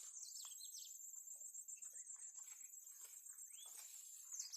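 Faint, steady high-pitched trilling of insects in a farm field. A few quick bird chirps come just after the start and again near the end, with scattered soft rustles.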